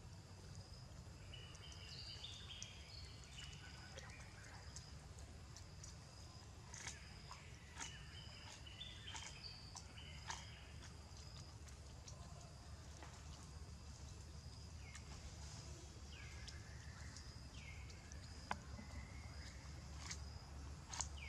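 Faint outdoor ambience of birds calling: short stepped whistled phrases early on and again a few seconds later, then several quick falling calls past the middle. A few sharp clicks and taps come in between, over a low steady rumble.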